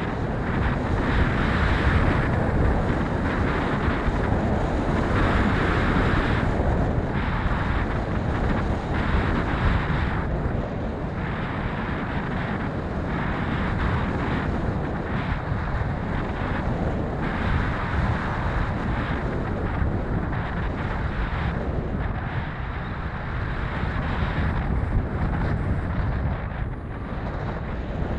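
Strong wind buffeting the microphone: a deep, rumbling rush that gusts up and down every second or two.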